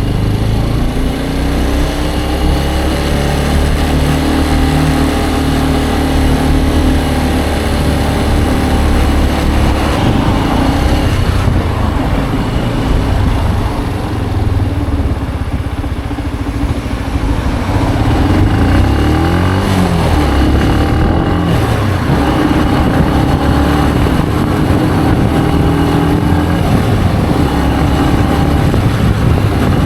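Benelli BN125's small single-cylinder engine running while the motorcycle is ridden, its pitch rising and falling with the throttle, over steady wind and road noise.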